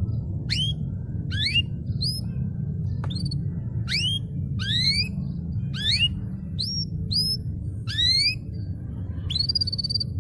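Domestic canary singing a series of separate rising whistled notes, roughly one or two a second, ending in a longer held note near the end. A steady low hum runs underneath.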